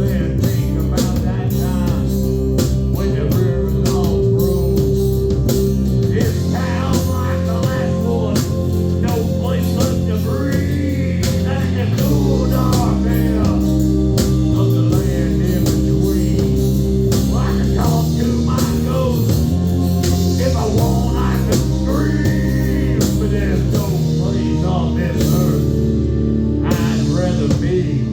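A rock band playing live, with electric guitar, bass and drums and a singer's voice over them.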